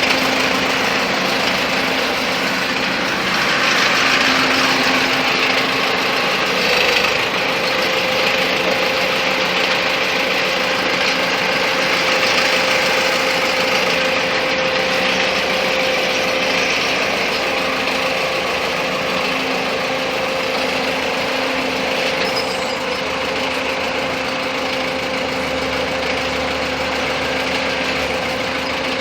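Truck engine idling steadily, with a steady whine joining in about seven seconds in.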